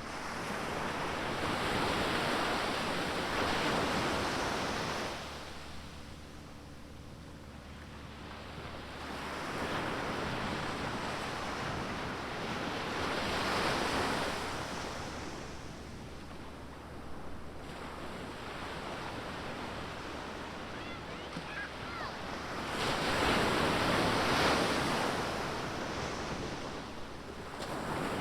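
Ocean surf: waves breaking and washing up the beach, the rush of noise swelling and ebbing three times.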